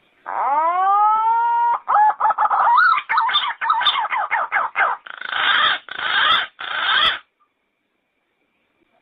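Yellow-footed green pigeon calling: a long rising whistle, then a run of quick warbling notes and three rougher notes, ending abruptly about seven seconds in.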